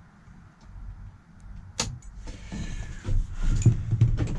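A single sharp click about two seconds in, followed by irregular rustling and knocking from handling.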